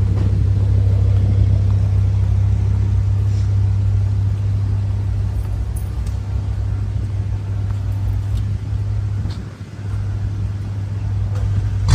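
Car running at a steady cruise: a constant low engine and road drone that dips briefly a little before ten seconds in.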